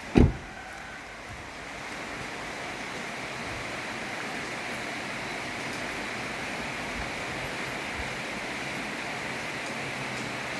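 Heavy rain falling in a steady hiss that swells slightly about two seconds in, with one short loud knock right at the start.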